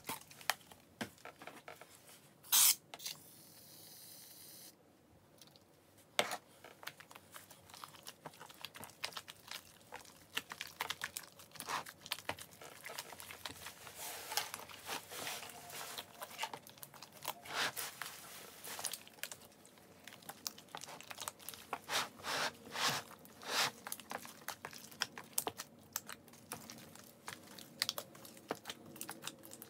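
Hands squishing, kneading and stretching a large mass of slime, giving many wet clicks, pops and crackles. A sharp snap comes about two and a half seconds in, followed by a high hiss lasting about two seconds.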